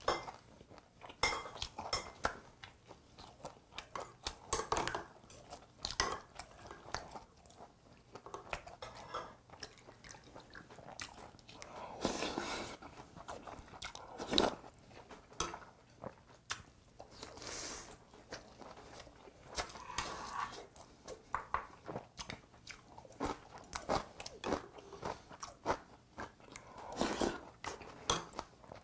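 A person chewing and crunching mouthfuls of grilled yellow croaker (gulbi) and rice, close to the microphone. The crunches come irregularly, with a few louder ones scattered through.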